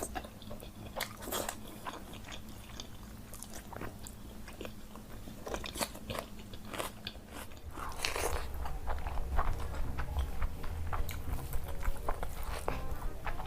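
Close-miked eating: crunchy bites and chewing, a dense run of sharp crunches. About eight seconds in, a steady low hum comes in under it and the crunching gets louder.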